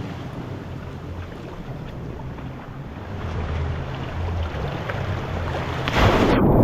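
Ocean surf washing on a rocky shore, with wind buffeting the microphone and a low steady drone underneath; a louder rush of water or gust comes near the end.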